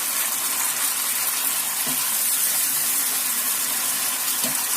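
Garlic, chili paste and tomato sauce sizzling in hot oil in a pan, a steady hiss, with two faint knocks about two and four and a half seconds in.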